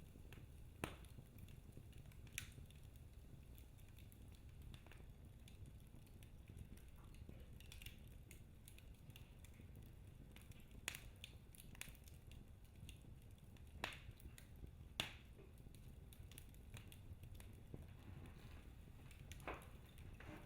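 Wood logs burning in a fireplace: quiet, irregular crackling, with scattered sharp pops every second or few over a low steady rumble of the flames.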